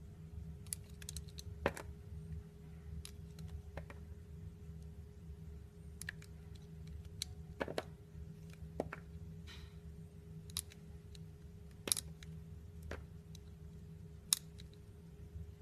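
A knife cutting an orange: irregular sharp clicks and taps as the blade goes through the peel and fruit, with a brief soft swish about nine and a half seconds in. A faint steady hum lies underneath.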